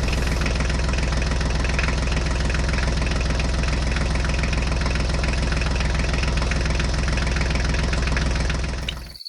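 Engine running steadily at idle with a fast, even chugging, starting abruptly and fading out near the end.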